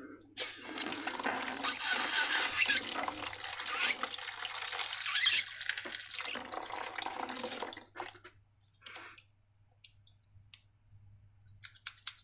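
Wet, gloopy liquid sounds of slime material being poured and worked for about eight seconds, then stopping, followed by a few scattered light clicks and taps.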